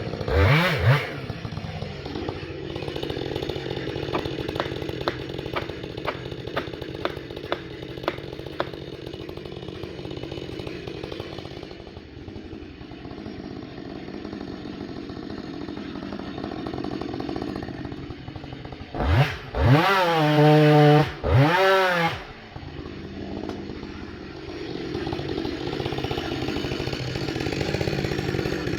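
Two-stroke chainsaw running throughout, with a short rev just after the start. For several seconds early on a run of sharp ticks sounds about twice a second. About two-thirds of the way through the saw is revved hard twice, its pitch sweeping up and back down each time, before it settles back to a steady run.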